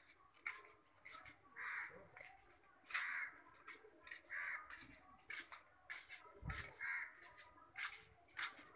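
Faint bird calls: a short call repeated about five times, roughly every one to one and a half seconds.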